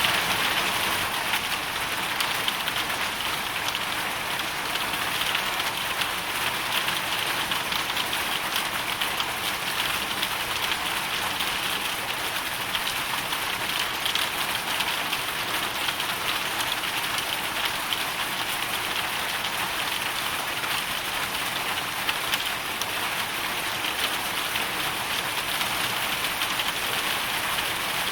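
Hailstorm sound: a dense, steady patter of hail and rain striking a hard surface, with no let-up.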